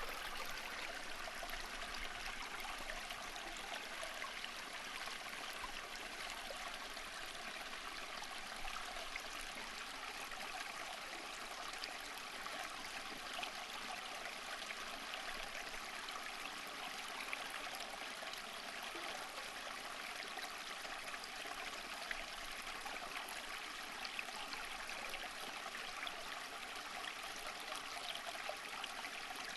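Steady flowing water of a stream, babbling and trickling evenly without pause.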